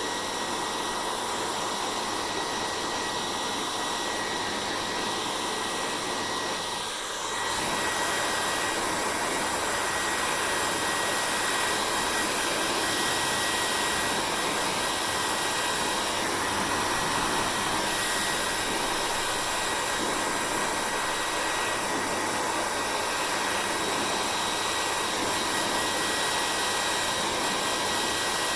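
Hair dryer blowing steadily, a whooshing rush of air with a thin motor whine above it. About seven seconds in it dips briefly, then runs on a little louder and fuller.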